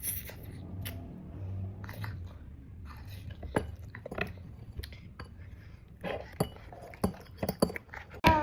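A small child chewing and eating, with a utensil clinking against a dish in short, scattered taps.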